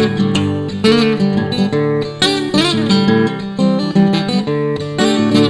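Instrumental passage of a song: acoustic guitar strummed in a steady rhythm, with no singing.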